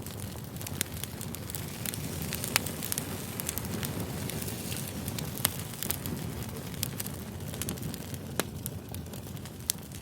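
Campfire crackling: a steady hiss with sharp pops and snaps scattered irregularly through it, a few louder than the rest.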